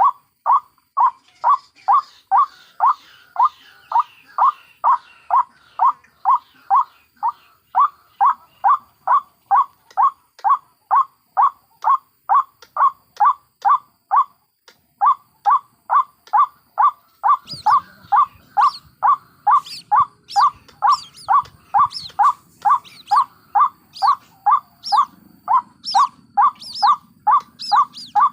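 White-breasted waterhen calling in a steady, rhythmic series of short calls, about two a second, with a brief pause about halfway. About two-thirds through, a second run of higher, thinner calls joins in between them. This is a looped lure recording of an adult and its chicks, used to call waterhens in for trapping.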